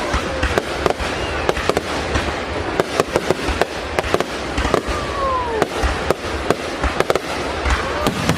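Fireworks display going off: a rapid, irregular string of loud bangs and crackles, with a few whistles falling in pitch.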